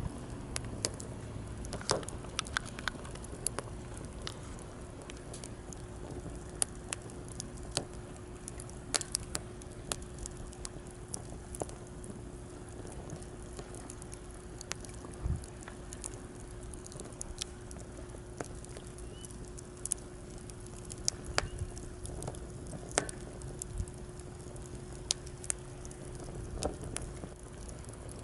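Wood campfire crackling, with sharp irregular snaps and pops over a steady low wash of sea waves.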